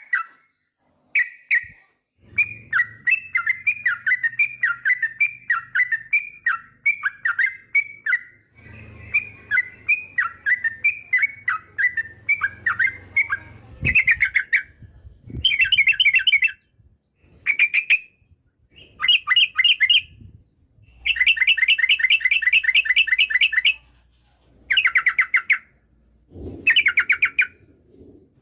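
Yellow-vented bulbul (trucukan) singing. It starts with a long run of short, repeated chirping notes, then from about halfway gives separate bursts of rapid, chattering trills, the longest lasting a few seconds.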